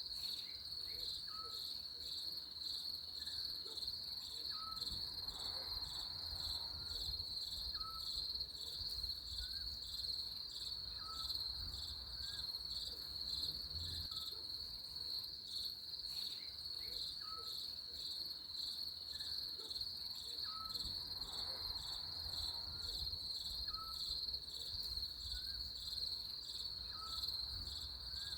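Crickets chirping in a steady, high, pulsing chorus. A short, faint call repeats every second or two beneath it.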